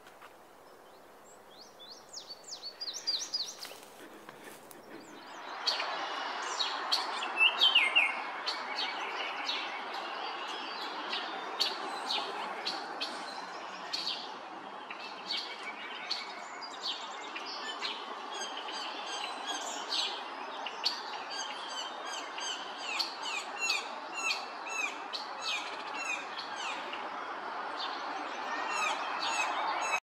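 Several birds chirping and calling, many short overlapping notes, faint at first. From about five seconds in they sit over a steady rushing background noise.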